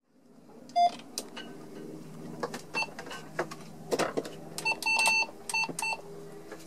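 Marine VHF radio's buttons being pressed: a series of short electronic beeps, several in quick succession about two-thirds of the way in, mixed with small clicks over a faint steady hum.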